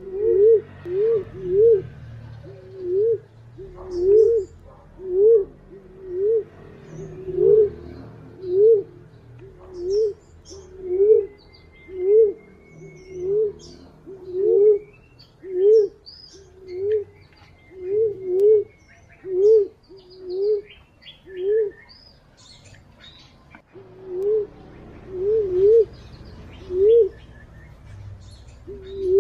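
A wild pigeon's cooing call used as a bird lure: short low hooting notes, each rising then dropping, repeated about once a second with a brief pause near the end, while small birds chirp faintly in the background.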